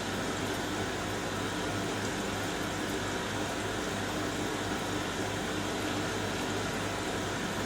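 Hoover DynamicNEXT washing machine in the final rinse of its wool cycle, water running in with a steady hiss over a constant low hum.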